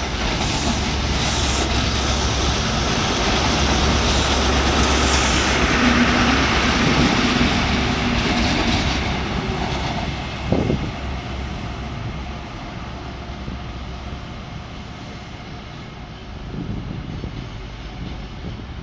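High Speed Train with Class 43 diesel power cars pulling out: a low steady engine drone and rail noise, loudest about six to eight seconds in, then fading as the train moves away. A brief sharp sound stands out about ten and a half seconds in.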